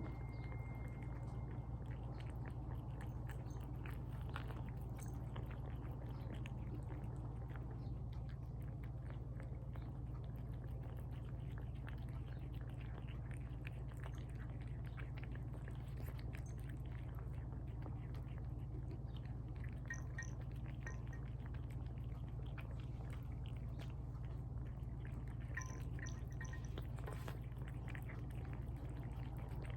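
Cats eating tuna from bowls: a run of soft, irregular wet chewing and smacking clicks over a steady low hum.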